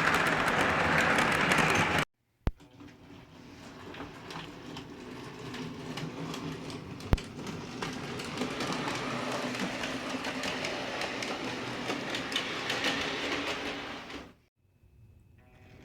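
O scale model train running on its track: a steady rumble and hum with many small wheel clicks. The sound cuts out abruptly about two seconds in, fades back up, and cuts out again near the end, with one sharp click about seven seconds in.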